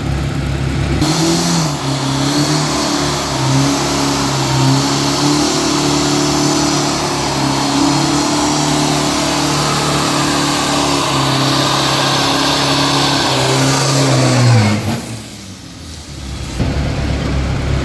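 A 2,500 cc diesel street truck's engine at full throttle on a quarter-mile drag pass. The note climbs and drops back several times for about thirteen seconds, then falls away as the throttle is lifted about fifteen seconds in. A steady lower engine sound takes over near the end.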